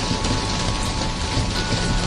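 Steady rain falling, an even hiss with no pauses. Faint steady tones run under it, and a higher one joins about one and a half seconds in.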